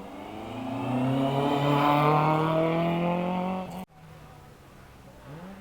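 Rally car engine at full throttle, its note climbing steadily in one long pull, loud, until it cuts off abruptly a little under four seconds in. After that a fainter engine revs briefly near the end.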